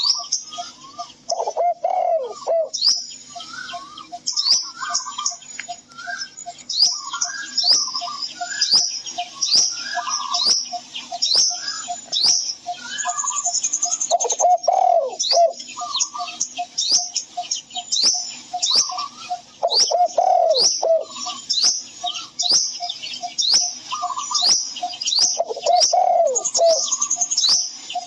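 Birdsong: many small birds chirping rapidly, with a dove cooing every few seconds over a steady run of short, quick low notes.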